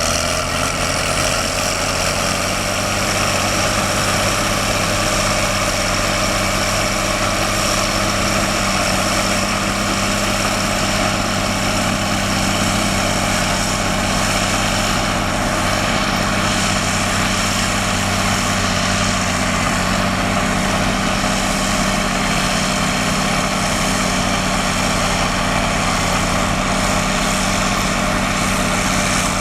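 Cat D6R XW bulldozer's diesel engine running steadily under work. Its pitch rises slightly at the start and then holds even.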